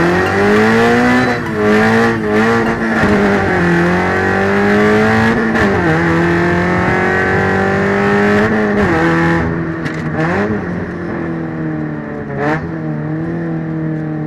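Subaru BRZ's flat-four engine and exhaust running under throttle. The note climbs sharply at the start, then holds with several brief sharp dips in pitch that recover each time, and it is a little quieter in the last few seconds.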